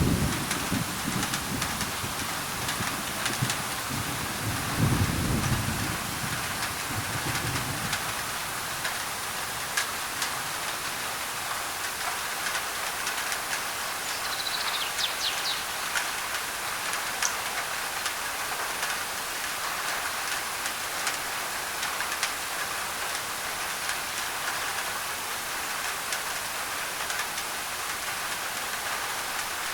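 Heavy rain pattering steadily on a thin tin roof, with a low thunder rumble in the first several seconds. A bird gives a brief run of high chirps about halfway through.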